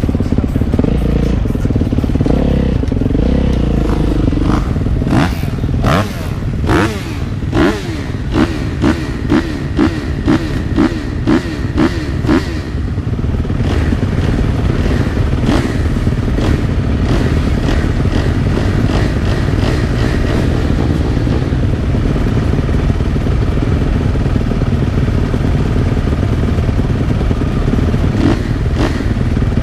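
Motocross motorcycle engine running under load on a dirt track, with scattered clattering knocks. About a third of the way in comes a run of about eight quick throttle blips, each a short rising rev, before the engine settles back to a steady pull.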